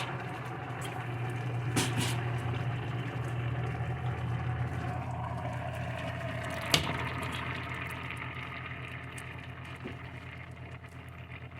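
Chicken drumsticks sizzling and bubbling in oil in a frying pan, over a steady low hum, with two sharp knocks about two and seven seconds in.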